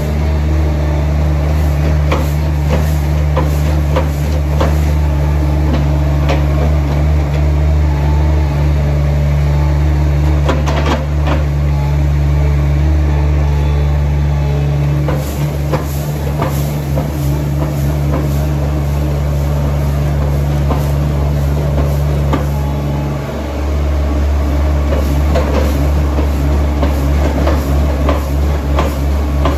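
A heavy vehicle engine running steadily, with knocks and rattles over it; the engine note dips briefly about 23 seconds in.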